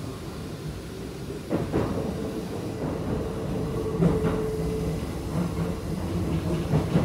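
Keikyu 1000 series stainless-steel train with a Toyo IGBT-VVVF inverter, heard from inside the car while running. The traction drive hums in steady tones under the running noise, with a few knocks of the wheels over rail joints.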